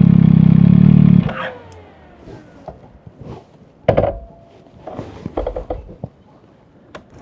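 MV Agusta Dragster 800 RR's three-cylinder engine idling steadily, then switched off a little over a second in, the sound cutting off suddenly and winding down. A few light clicks and knocks follow, the sharpest about four seconds in.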